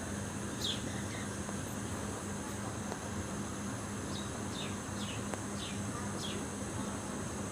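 Steady high-pitched insect drone over a background hiss. A small bird gives short, falling chirps, once near the start and then about five in quick succession in the second half.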